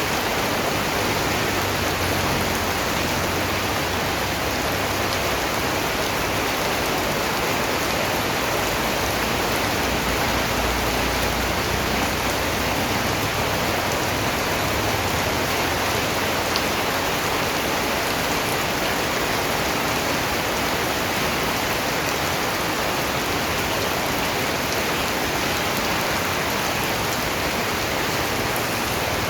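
Steady, even rain falling, a continuous hiss of raindrops with no changes.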